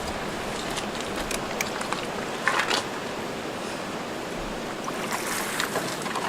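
Steady rush of wind and water around a canoe, with a few light knocks scattered through, the clearest a short cluster a little before the middle.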